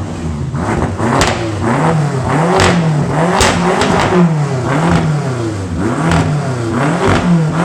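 BMW F10 M5 twin-turbo V8 exhaust with the mufflers deleted, revved over and over in quick blips, about three every two seconds. Sharp pops and cracks come from the exhaust as the revs drop.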